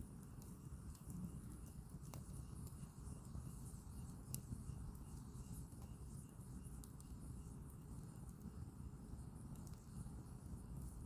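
Firewood burning in a small campfire: a low, steady rumble of flame with faint scattered crackles and pops from the wood, one sharper pop about four seconds in.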